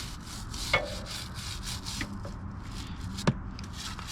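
Brush scrubbing a dirty motorcycle chain in quick back-and-forth strokes, about three a second, with a few light clicks of metal.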